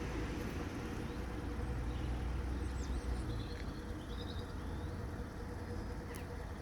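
Passenger train running slowly into the station: a low rumble with a steady hum, easing off a little after the first few seconds. A few bird chirps in the middle.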